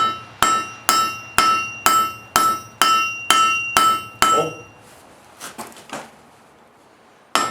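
Forging hammer striking steel on an anvil, about two blows a second, each with a clear metallic ring. After about ten strikes the hammering pauses for a few seconds with only a few light knocks, then starts again right at the end.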